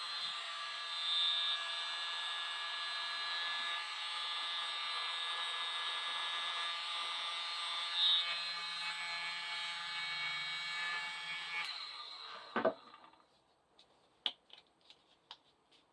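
Tiny handheld mini blower running steadily with a whining motor, switched off about twelve seconds in. A single knock follows, then a few light clicks.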